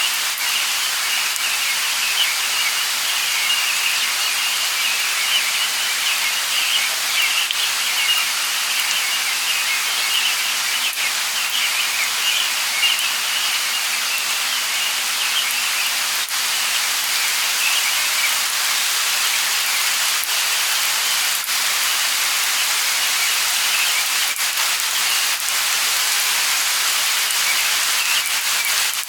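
Steady light rain hissing, with scattered drop ticks and a dense chirping of birds in the background that thins out about halfway through.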